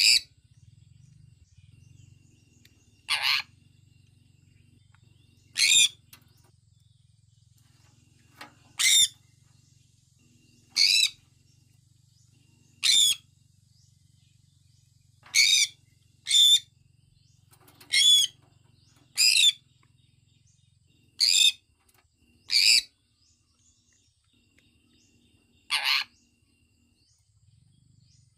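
Sun conure chirping: about a dozen short, loud, high-pitched calls, one every one to three seconds, with a faint low hum underneath.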